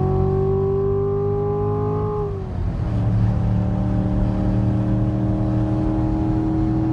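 Chevrolet Corvette Grand Sport's V8 engine under power on a track lap, heard from inside the cabin with the windows up. The engine note climbs slowly, drops sharply about two and a half seconds in, then holds steady.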